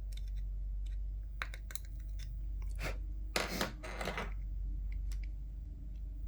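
Small sharp clicks followed by a short crunching scrape about three and a half seconds in, from working at hardened glue on a plastic headset ear cup, over a steady low hum.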